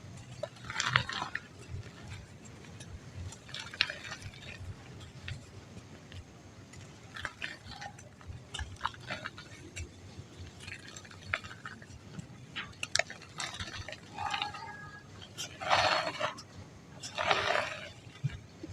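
Lumps of dry mud crumbling, a string of crisp, crackly bursts that come in separate handfuls a second or few apart, the last two near the end the loudest.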